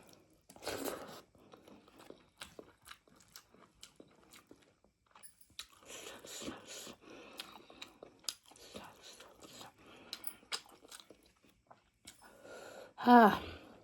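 Close-up chewing and biting of tough buffalo meat, with many small wet mouth clicks. Near the end comes one short, loud voiced exclamation.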